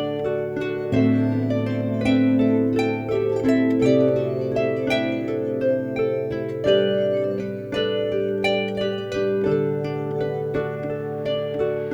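Instrumental folk-style music: a harp plays a quick run of plucked notes over long held low bass notes. The music fades out just after the end.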